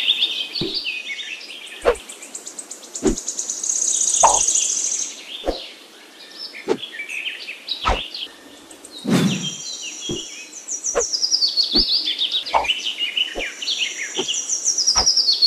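Small birds chirping in quick trills that fall in pitch, repeated several times, with soft clicks at a fairly even pace underneath.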